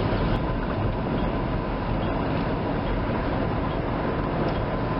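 Steady vehicle noise: a continuous low engine rumble with hiss from a vehicle in the tow.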